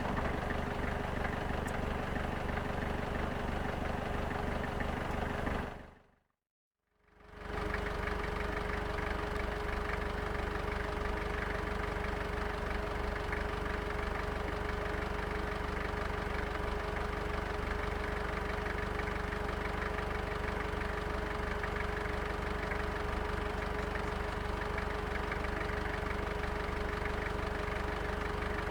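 Vehicle engine idling steadily. It fades out about six seconds in and fades back in a second later.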